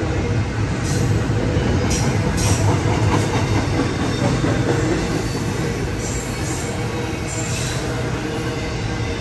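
Double-stack intermodal freight cars rolling past: a steady rumble of steel wheels on rail, with a few faint, brief high sounds from the wheels.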